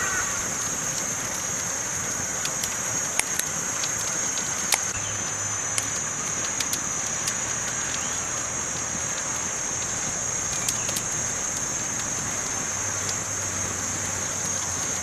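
Campfire burning: a steady hiss with scattered sharp crackles and pops, the loudest pops around three and five seconds in.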